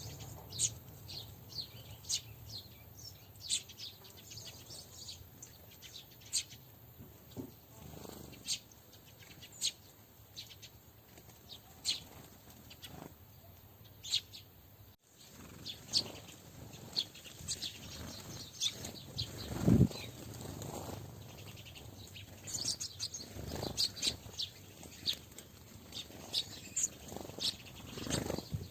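Small birds at a bird feeder making short, high chirps every second or so, with a few soft thumps and flutters among them, the loudest about two-thirds of the way in.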